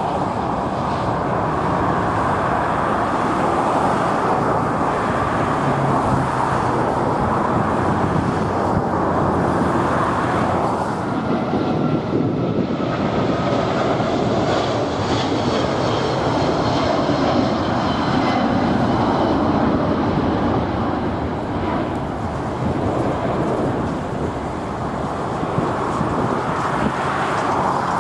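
Jet airliner engines running at takeoff power, a steady rushing noise with a high whine most noticeable in the middle, mixed with wind buffeting the microphone.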